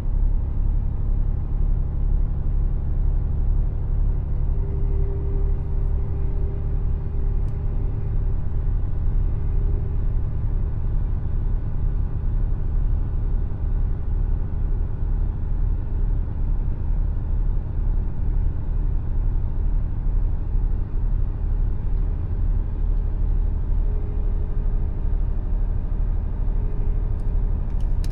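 Mercedes Actros truck's diesel engine and tyres running on the road, a steady low rumble.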